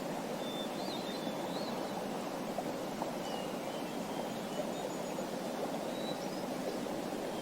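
Small songbirds chirping faintly, in scattered short thin calls, over a steady rushing sound like a flowing stream.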